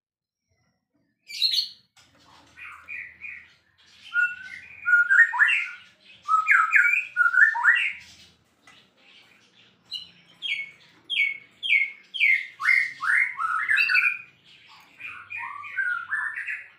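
White-rumped shama (murai batu) singing loudly after a second of silence: a varied song of whistles and quick downward-sweeping notes, with a fast run of repeated strokes in the second half.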